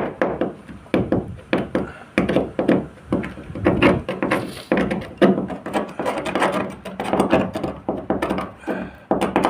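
Rapid, irregular knocking and thunking on a hard, wood-like surface, several knocks a second.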